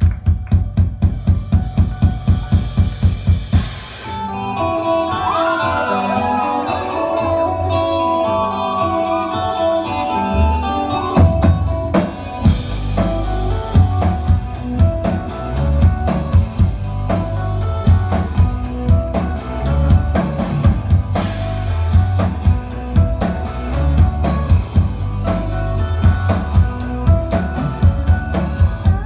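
Live indie rock band playing an instrumental passage of a song. A steady kick-drum pulse stops about four seconds in, giving way to a melodic guitar line with sliding notes, and the full band with drums comes back in about eleven seconds in.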